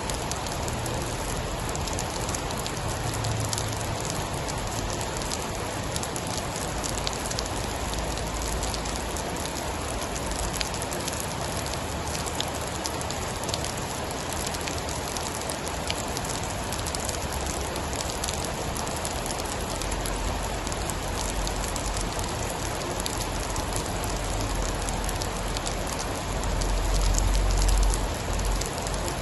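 Steady heavy rain with a dense patter of drops. A low rumble swells near the end.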